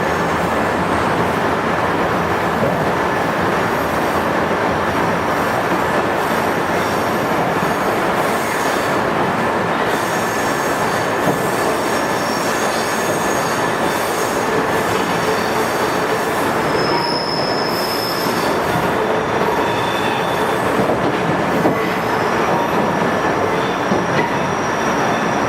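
A 103 series resistance-controlled electric train running, with a steady rumble of wheels and traction motors. High squealing tones from the wheels come in past the middle, the strongest briefly a little after the midpoint.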